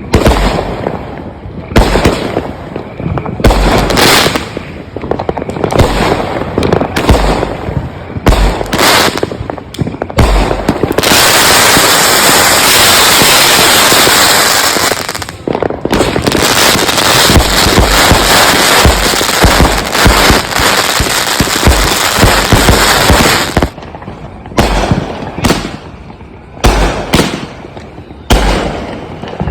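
Consumer multi-shot fireworks cakes firing: a string of sharp launches and bangs, breaking into a dense, unbroken barrage about eleven seconds in that lasts around twelve seconds before it thins back to spaced shots.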